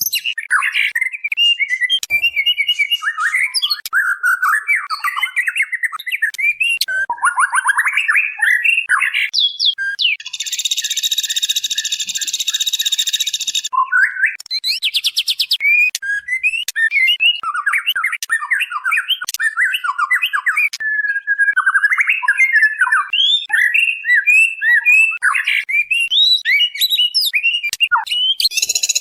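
Female white-rumped shama calling: a quick, continuous run of short chirps, squawks and warbled notes, with a harsh buzz lasting a few seconds about ten seconds in and a fast rattle just after.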